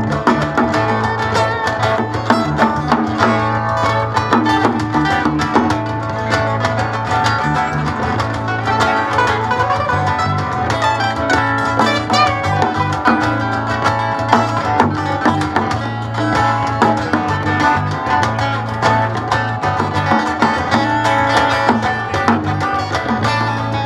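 Live acoustic bluegrass band playing an instrumental break between sung verses: plucked strings picking the melody over a steady bass.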